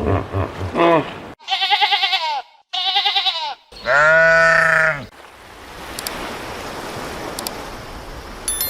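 Bleating: two short quavering bleats, then a longer, louder one, followed by a steady hiss of background noise.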